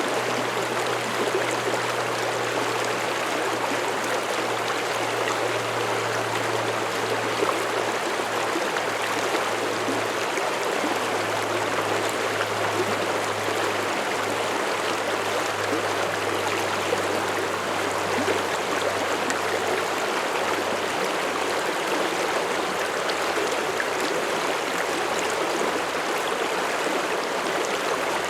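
Mountain stream flowing steadily over rocks, an even rush of water with a constant level. A faint low hum lies underneath and fades out about two-thirds of the way through.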